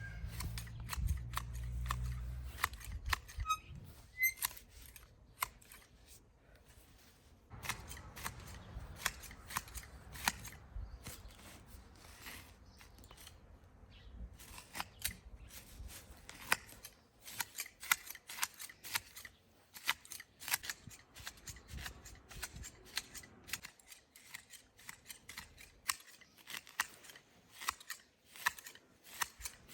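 Many short, sharp clicks, several a second and irregular, with a low rumble under them at the start.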